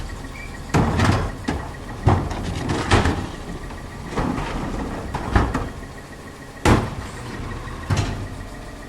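Garbage truck's engine running at a pickup, with a string of sharp bangs and thuds, about one a second, as it loads trash and recycling at the hopper.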